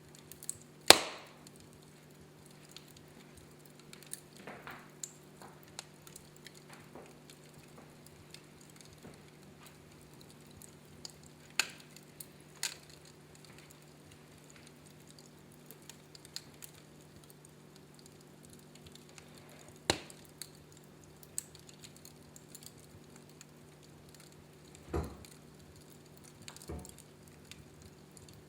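Wood fire in a fireplace crackling, with small ticks and a few sharp pops scattered through; the loudest pop comes about a second in. A steady low hum sits underneath.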